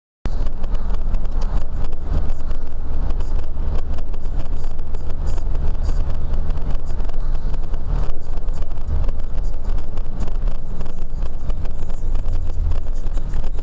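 A car driving, its engine and road noise making a steady low rumble that starts abruptly just after the beginning.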